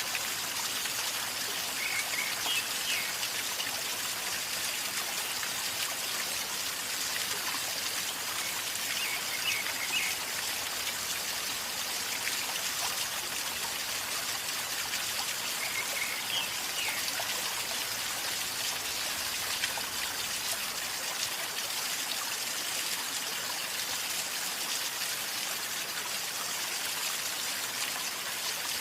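River water flowing calmly in a steady gurgling rush, with faint high chirps three times.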